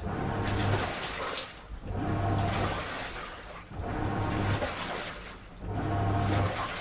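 Washing machine on a strong wash cycle: the drum churns in surges about every two seconds, each with a low motor hum and water sloshing, easing off briefly between turns. There are four surges.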